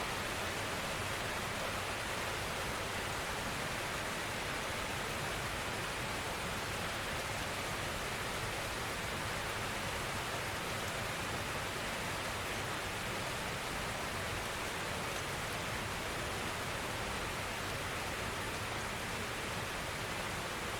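Steady rainfall: an even, unbroken hiss of rain, brightest in the upper-middle range, with no single drops or gusts standing out.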